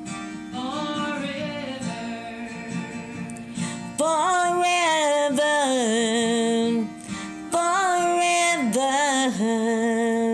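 Closing bars of a recorded ballad: acoustic guitar accompaniment under a singer holding long notes with vibrato, louder from about four seconds in.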